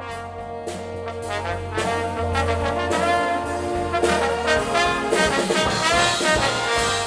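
Concert band playing, with the brass to the fore, growing louder over the first couple of seconds and then holding full.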